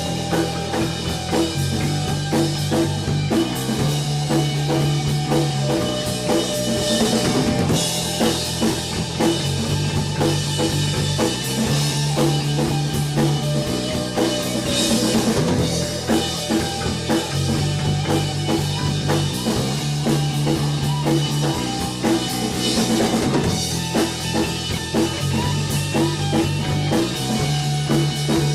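Rock band playing: a drum kit with a sustained bass line that changes note every second or two, with cymbal crashes about seven and fifteen seconds in.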